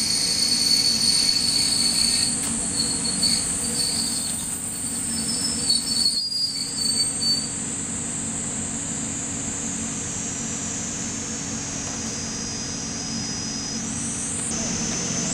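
Noto Railway diesel railcar running with its wheels squealing, the squeal wavering and dying out about halfway through, over a low steady hum. Insects chirp in a steady high shrill throughout.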